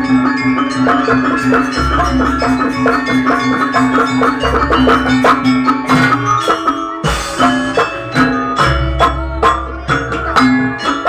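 Live traditional music played with mallet percussion and drums, with quick struck notes over a deep bass note that returns every two to three seconds. No singing.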